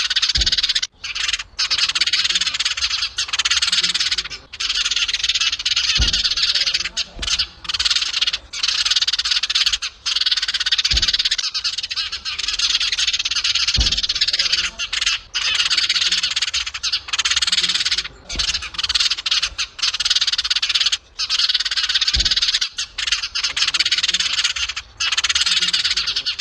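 House sparrows chirping in a dense, almost continuous chatter, broken by short pauses, with a few brief low thumps.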